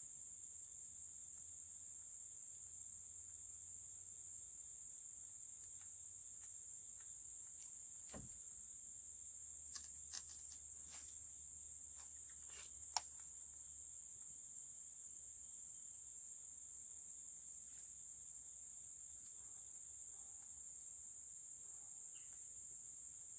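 Steady high-pitched chorus of insects, with a few faint ticks around the middle and one sharp knock about 13 seconds in.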